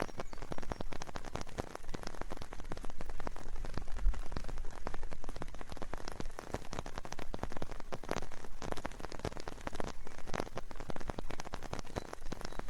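Steady rain, with many separate drops striking close by, some louder than the rest.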